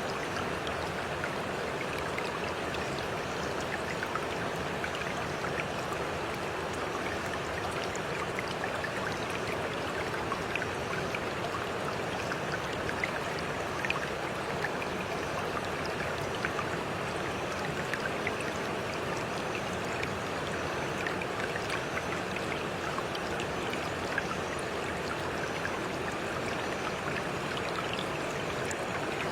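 Stream water flowing steadily, with many small splashes and trickles running through it.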